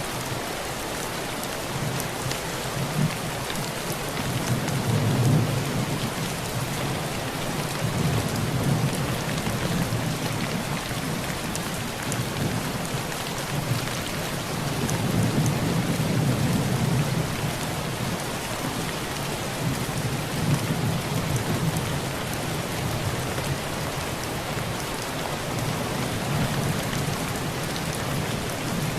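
Heavy rain falling steadily on a tin roof, with low thunder rolling in and fading several times, loudest about five and fifteen seconds in.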